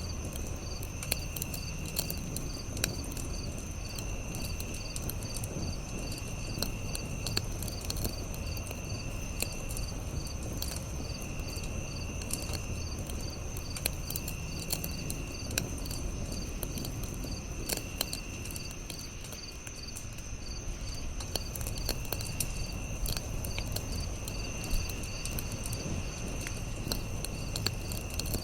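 Campfire crackling with sharp pops over a low steady rumble, under a chorus of crickets and other insects: a steady high trill, rapid regular chirps, and a buzzing call that comes in roughly one-second bouts about every two seconds.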